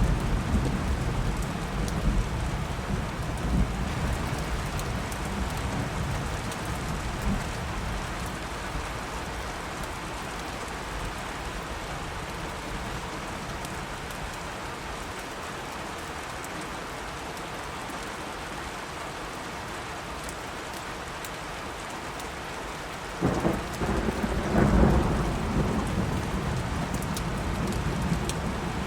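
Steady rain with thunder. A low rumble dies away over the first several seconds, then a sudden thunderclap about 23 seconds in rolls on for a few seconds before fading back into the rain.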